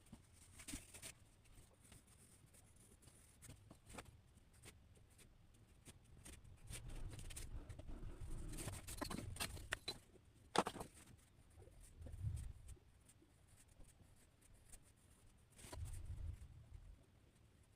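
Faint drawing strokes scratching on paper: scattered short scrapes and ticks, with a sharper tick about ten and a half seconds in.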